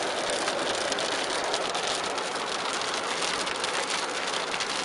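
Heavy rain drumming on a car's roof and windshield, heard from inside the car: a steady hiss dense with small ticks of drops.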